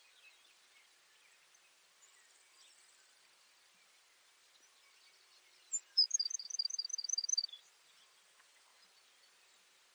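Baird's sparrow singing one song about six seconds in: a high opening note, a quick trill of about eight paired notes, then a lower closing note. Faint background hiss fills the rest.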